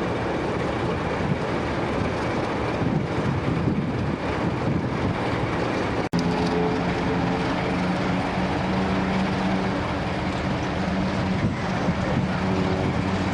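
Diesel locomotive running. About halfway through, the sound breaks off for an instant, and after that there is a steady low engine drone with several held tones.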